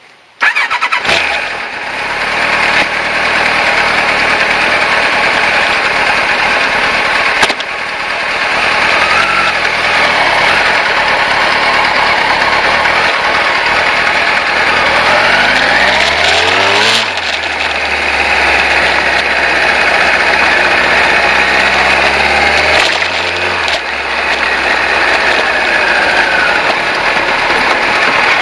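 Kawasaki ZZ-R1100 motorcycle's carbureted inline-four engine running under way at low speed, then revs rising as it pulls away, with a break in the engine note about two-thirds of the way through and another near the end, as at gear changes. Wind rushes over the bike-mounted microphone.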